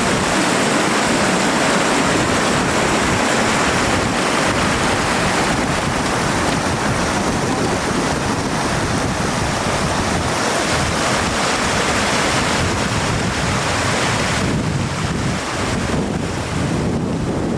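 Floodwater rushing steadily, a loud, even roar with no breaks.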